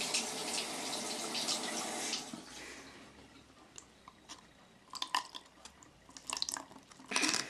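Water trickling into a homemade plastic-bottle rain catcher, a steady pour for about two seconds that fades to scattered drips as it seeps through the pierced filter. A brief louder noise comes near the end.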